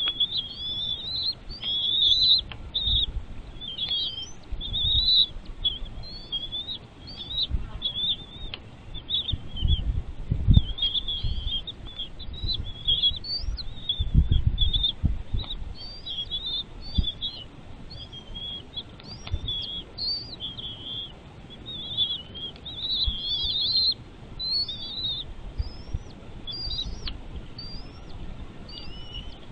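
Birds chirping continuously: a rapid run of short, high chirps, many with quick upward sweeps. Low rumbling thumps come through underneath, loudest about ten and fourteen seconds in.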